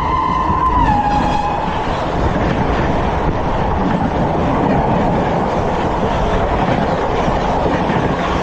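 ICF passenger coaches running at speed on the track: a dense, steady rumble and rattle of wheels and rails. At the start a high steady tone is heard over it, which drops in pitch about a second in and fades away.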